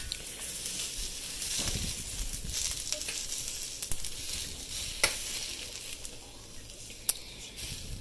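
Dumplings sizzling in a lightly oiled HexClad frying pan while a metal fork pushes them around, with a few sharp clicks of the fork against the pan.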